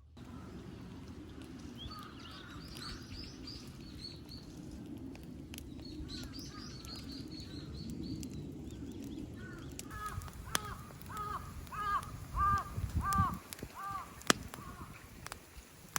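A crow cawing about eight times in a quick even run in the second half, after high twittering from small birds in the first half. A steady low rumble lies underneath, with a few sharp snaps.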